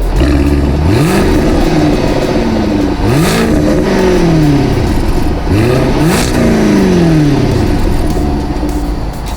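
Car engine revved three times, each rev climbing quickly and then dying away more slowly.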